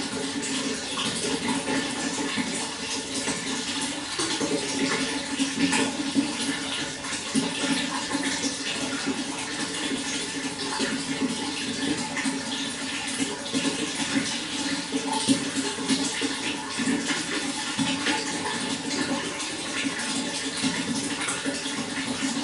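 Running water flowing and splashing steadily, an even rushing with small fluctuations throughout.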